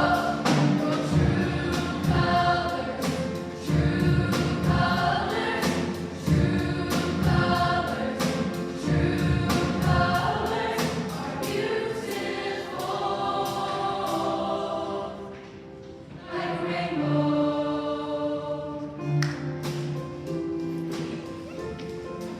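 A choir singing to music, with short sharp strokes keeping the beat. The singing drops away briefly past the middle, then swells again.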